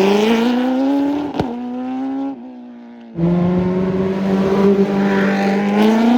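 Race car engine running at high revs under hard throttle, its pitch slowly climbing. About two and a half seconds in it drops away to a lower, quieter note, then comes back suddenly at full volume and climbs again.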